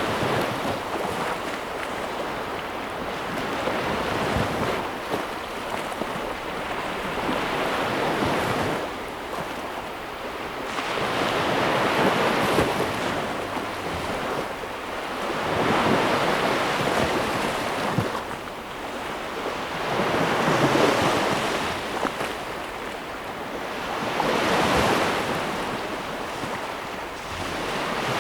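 Ocean waves breaking and washing in, a steady rushing surf that swells and fades about every four seconds.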